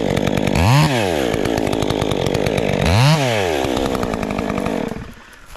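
Two-stroke chainsaw running, blipped up to high revs and back down twice, then shut off near the end.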